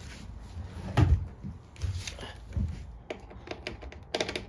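Knocks and clunks from fitting and tightening the air filter cover on a Briggs & Stratton mower engine, the loudest a sharp knock about a second in, followed by a quick run of small clicks near the end.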